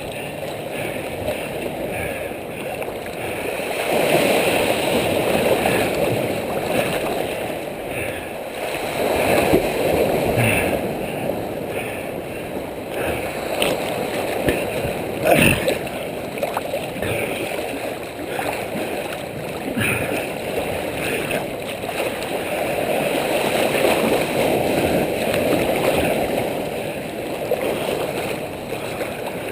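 Ocean waves surging and sloshing against rocks, swelling and falling away every few seconds, with sharp splashes now and then, the loudest about halfway through.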